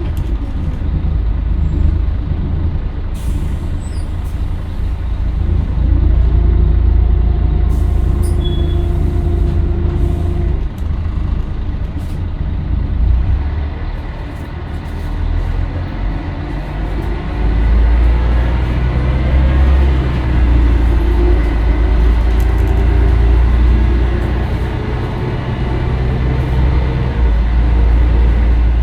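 Scania L113CRL bus's diesel engine running under way, its note rising as the bus accelerates, holding, then rising again in a second pull after the middle, over a steady deep rumble. A few short sharp clicks come near the start.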